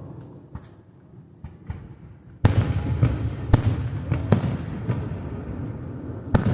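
Aerial fireworks going off: a few faint pops, then a loud boom about two and a half seconds in. The boom is followed by a rolling rumble and several more sharp bangs.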